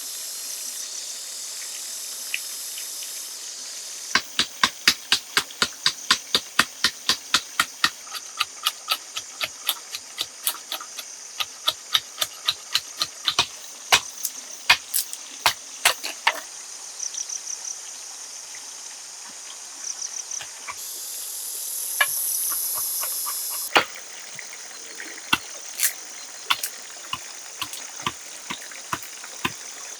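Rainforest insects buzzing steadily, with a run of sharp knocks, about three a second, starting about four seconds in and thinning to scattered knocks after the middle. The insect buzz swells for a few seconds near the end.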